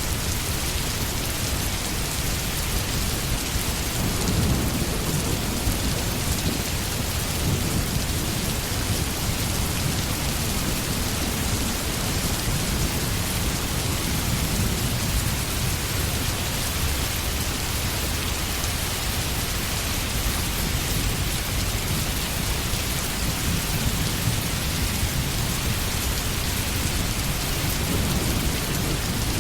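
Steady rain falling, with low rolling thunder rumbling underneath that swells a few times.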